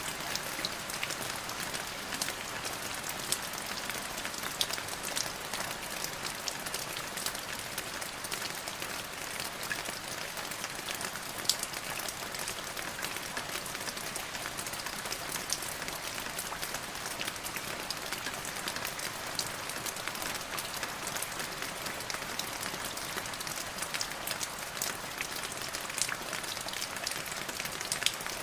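Steady rain falling, a dense hiss with many sharp individual drops pattering on a surface.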